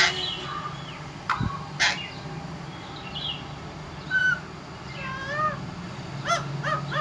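Parrot calling in short, squeaky chirps and whistled notes that rise and fall in pitch, with a quick run of calls near the end.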